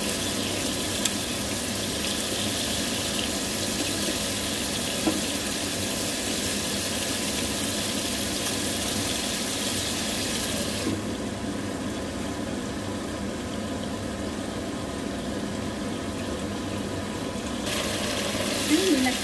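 Chicken in sauce sizzling in a nonstick frying pan, a steady hiss with the odd light knock of a spatula. For several seconds in the middle the hiss turns duller, then a short clatter near the end.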